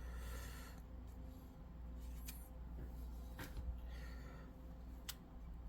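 Faint handling noise of packing foam being pulled away from a model locomotive: soft rubbing and rustling with three light clicks, over a steady low hum.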